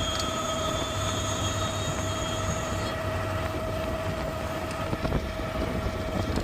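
Garbage truck's hydraulics whining steadily under load over the low running of the engine, as the truck raises its tailgate or body to dump at the landfill. A thin high whistle in the whine drops out about three seconds in.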